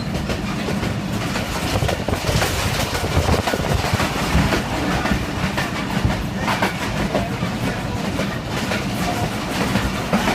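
Passenger train running along the track: a steady rumble and rattle, with the wheels clacking over the rail joints now and then.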